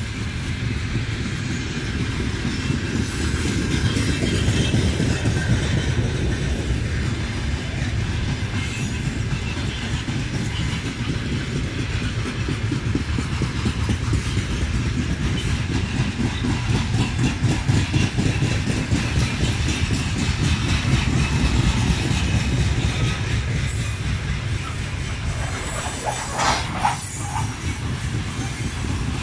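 Freight train of open-top gondola wagons rolling past, its wheels rumbling and clattering over the rail joints in a rapid, steady rhythm. A brief higher-pitched sound cuts through near the end.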